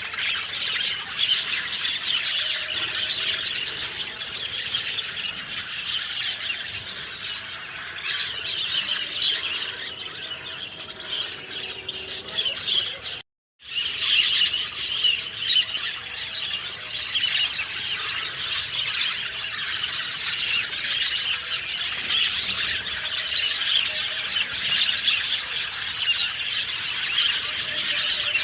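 Many birds chirping and calling together in a dense, continuous chorus of high chirps, cut off by a moment of dead silence about halfway through before resuming.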